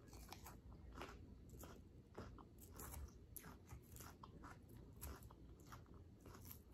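Close, quiet crunching and chewing of a mouthful of crisp Caesar salad, with many small crackles a second.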